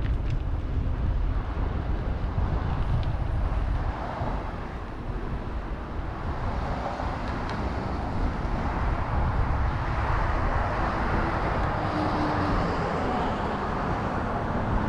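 Wind rumbling steadily on the microphone of a moving bicycle, with a haze of road and traffic noise behind it.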